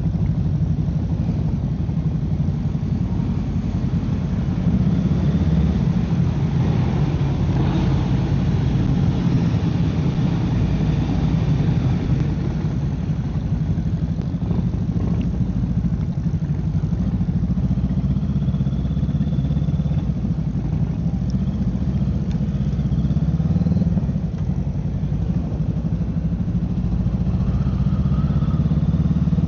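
Honda Rebel 500's parallel-twin engine running steadily as the motorcycle is ridden, its note rising and falling only slightly.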